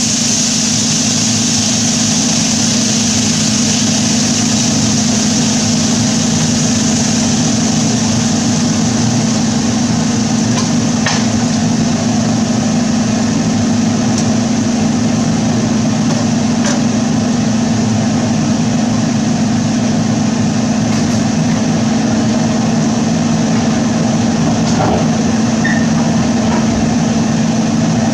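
Kitchen fan running steadily with a loud, even hum and rushing air, turned on to keep cooking smoke from setting off the smoke detector. A few faint clicks can be heard through it.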